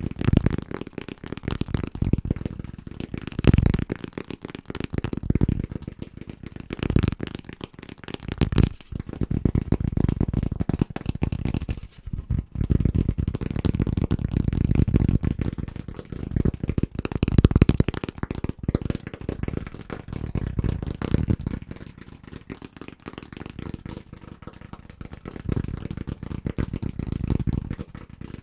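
Fast, aggressive tapping with the fingertips on household objects, in runs of a few seconds broken by brief pauses.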